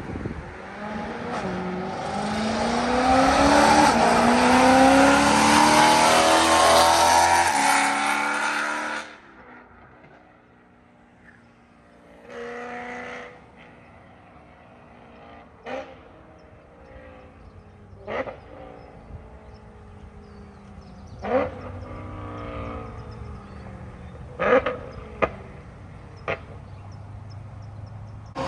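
BMW E92 M3 V8 with a catless X-pipe and Borla ATAK cat-back exhaust accelerating hard, its pitch climbing for about nine seconds before it drops off suddenly. After that it runs quietly with a low drone, a short burst of throttle and several brief sharp blips.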